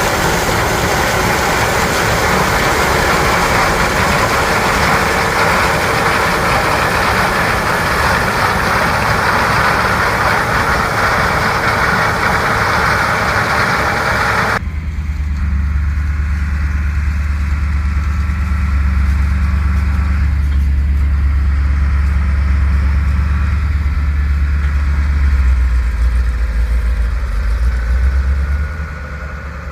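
Corn-harvest machinery running: a dense, noisy machine sound cuts off suddenly about halfway through and gives way to a deep, steady engine drone.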